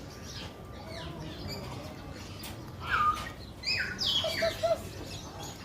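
Birds chirping and calling over a low background hum, with a cluster of short chirps and calls in the second half.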